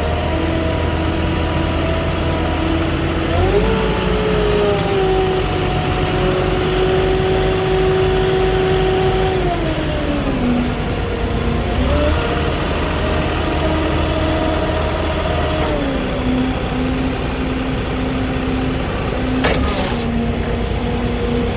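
Moffett truck-mounted forklift's engine running and revving up twice, each time held at higher speed for several seconds before dropping back, as the forklift stacks a pallet of shingles. A single sharp clank or knock sounds near the end.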